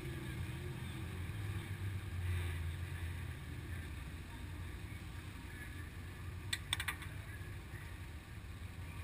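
Race car engine idling with a low, steady hum, and a quick cluster of sharp clicks about two-thirds of the way through.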